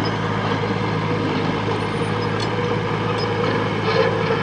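Diesel engine of a heavy construction machine running steadily at a constant speed, with a few faint clicks over it.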